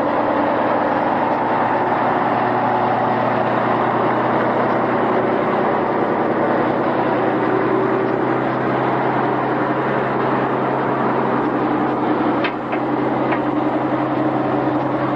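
A large engine running steadily, its low hum shifting in note about eight seconds in, with a couple of sharp clicks near the end.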